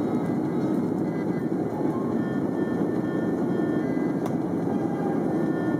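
Steady cabin noise of an Airbus A330-300 in climb: engine and airflow rumble inside the passenger cabin, with a faint high hum over it and a small click about four seconds in.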